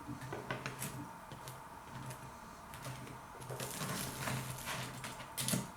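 Toast being eaten: crunchy chewing and mouth noises, with scattered light clicks of crockery and a sharper knock near the end.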